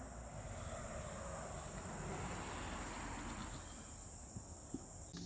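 Crickets trilling steadily in a continuous high-pitched drone, over a soft outdoor background hiss.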